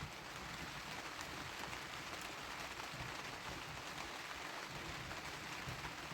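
Heavy rain falling steadily, an even hiss with the patter of individual drops.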